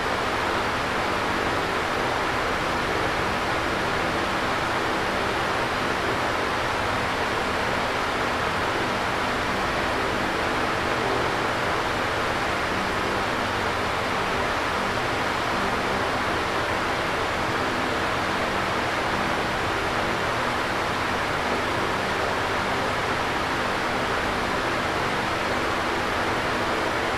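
Electric fan running steadily: an even whooshing air noise with a faint steady motor hum beneath it.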